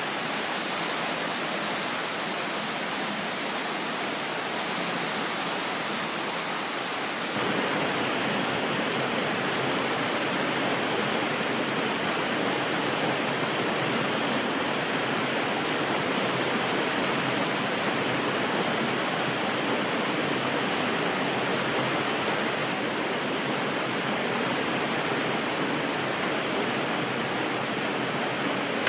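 Steady rushing of a flowing river. About seven seconds in it changes suddenly and gets a little louder and fuller.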